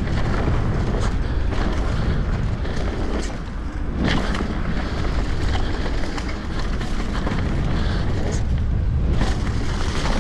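Mountain bike rolling fast down a dirt trail: a steady rumble of wind on the microphone and tyres on rough ground, with a few sharp knocks over bumps. There is no creaking or crackling from the suspension fork or headset, which were cleaned, greased and re-tightened to cure that noise.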